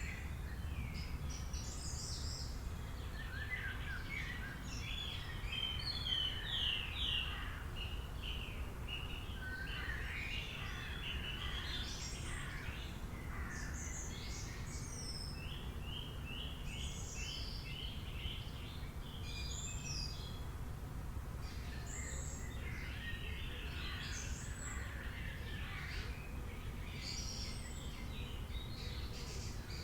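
Several wild birds chirping and trilling, with many short calls overlapping and a steady low rumble of background noise underneath.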